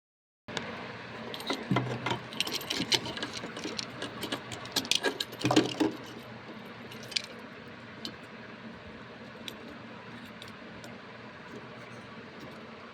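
Clicking and rattling of small hard parts being handled, dense for the first six seconds, then a steady faint hum with a few isolated ticks.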